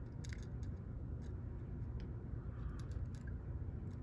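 A few faint, light clicks as small metal parts of a disassembled lock are handled, over a steady low hum.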